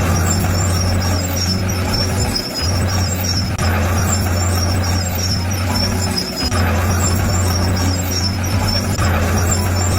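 Shantui bulldozer's diesel engine running steadily with a strong low hum, dipping briefly twice, about two and a half and six seconds in.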